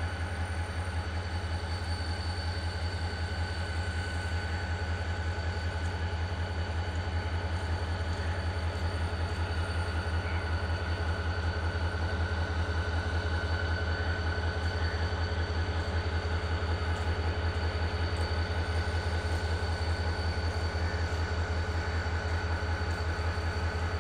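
A train's steady low mechanical drone with a fine rapid pulse in it and a faint high whine above, unchanging throughout.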